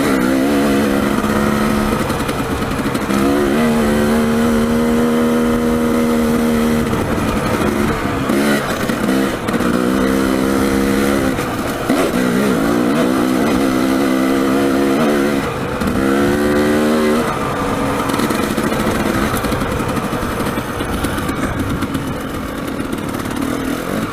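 Dirt bike engine being ridden off-road, its pitch repeatedly climbing and dropping as the throttle is opened and closed, with short breaks in the engine note. A steady rushing noise of wind on the helmet-mounted microphone runs underneath.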